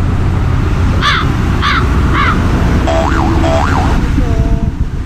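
Steady loud drone of a ship's engine-room machinery. Over it, about a second in, come three short arched caw-like calls, then two more calls and a few gliding tones near the end.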